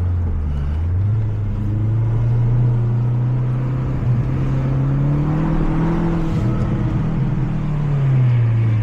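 Mazda 3 MPS's 2.3-litre turbocharged four-cylinder heard from inside the car under acceleration. The engine note dips about half a second in, climbs steadily through the revs, then drops away near the end as the throttle comes off.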